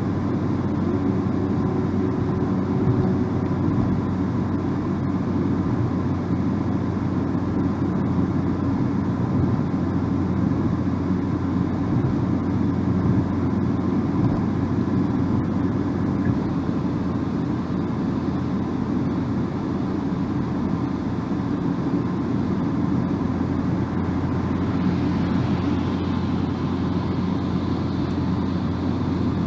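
Steady low rumble of a car driving at speed: tyre and road noise with engine hum, heard inside the cabin. A higher hiss joins near the end.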